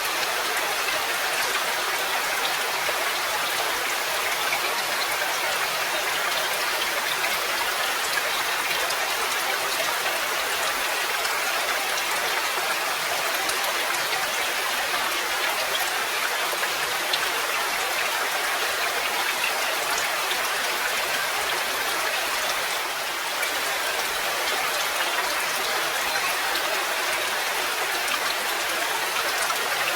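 Steady rain falling: a dense, even hiss of rain with scattered individual drop ticks throughout.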